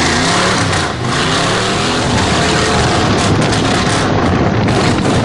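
Truck engine accelerating in first gear, its pitch climbing as it revs, over a loud rushing noise.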